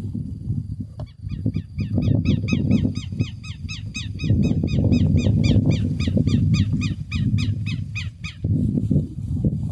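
A bird calling in a rapid series of sharp repeated notes, about four a second, starting about a second in and stopping near the end, over a loud low rumble with crackles.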